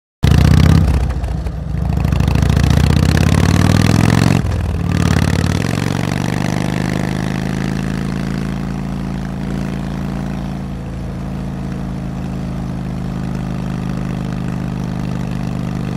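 Motorcycle engine bursting into sound and revving unevenly for about four seconds, then settling into a steady idle.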